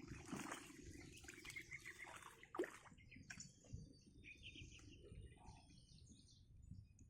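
Faint bird chirps: a quick run of short high calls starting about three seconds in, over low outdoor background noise.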